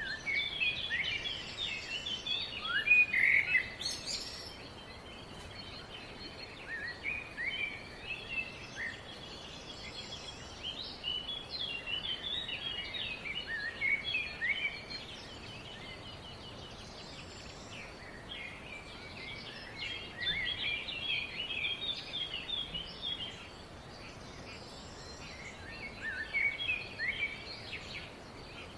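Songbirds chirping in bouts of quick, high notes with short pauses between them, over a steady faint background hiss. A brief sharp click sounds about four seconds in.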